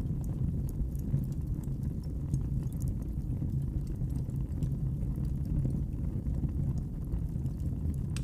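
Wood fire crackling in a fireplace: many small, sharp pops and snaps over a steady low rumble.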